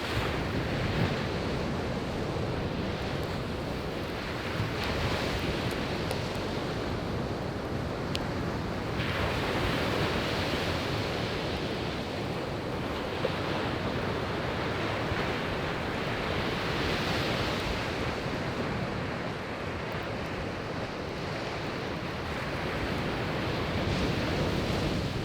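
Sea waves breaking on a beach, a continuous wash that swells and eases every few seconds, with a few sharp crackles from a wood campfire.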